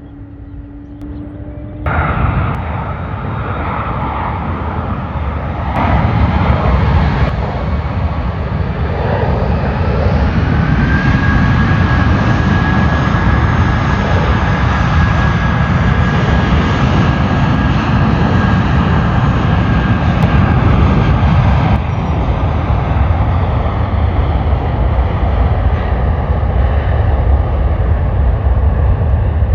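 Jet airliner engines running loud and close: a deep rumble with a high whine that rises slightly about ten seconds in, then holds steady. It starts abruptly about two seconds in, after a quieter steady hum.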